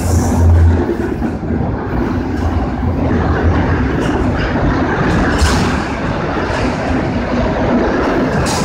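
Train rolling past close by: a steady loud rumble of wheels on rail, with a low diesel hum in the first second.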